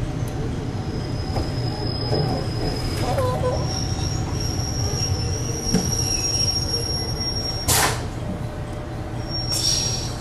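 Train running on the rails with a steady low rumble, its wheels giving a thin, high-pitched squeal for several seconds, and a short burst of noise about three-quarters of the way through.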